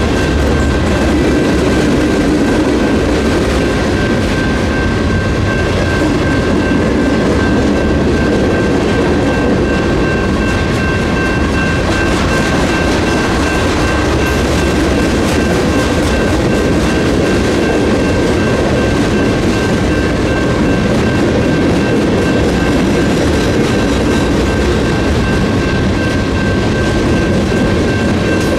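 Freight train cars loaded with lumber rolling past at a crossing, their wheels rumbling and clattering steadily over the rails. Above it, the crossing's NEG electronic bell keeps ringing as a steady, high tone.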